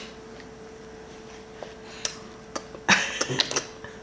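A few sharp clicks and taps of a plate and utensils being handled, thickening into a quick cluster near the end, over a faint steady hum.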